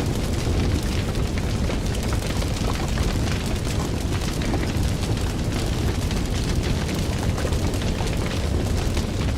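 Fire burning with a steady low roar and scattered small crackles and pops.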